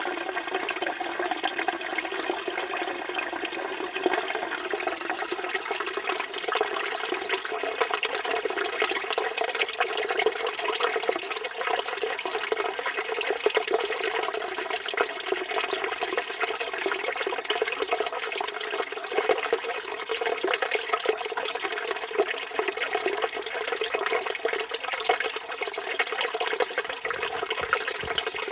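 Water pouring steadily from the spout of a village fountain and splashing into the stone basin below, a continuous splashing rush.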